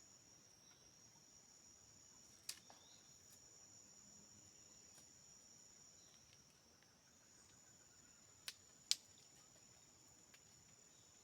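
A faint, steady, high-pitched insect chorus, a continuous trill of crickets or similar insects. It is broken by a sharp click about two and a half seconds in and two more in quick succession near the end, the last being the loudest.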